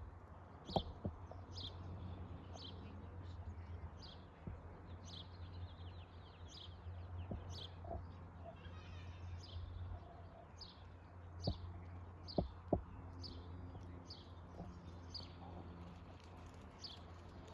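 A bird repeating a short, falling chirp a little more than once a second, over a steady low rumble, with a few sharp clicks about a second in and again near the two-thirds mark.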